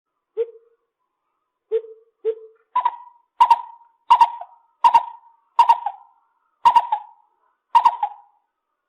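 Lesser coucal calling: three short, hollow low notes, then a run of seven higher notes, about one every 0.7 seconds.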